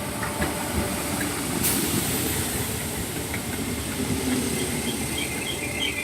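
Merseyrail Class 507 electric multiple unit running low at the platform, with a sudden hiss of compressed air starting about a second and a half in and carrying on.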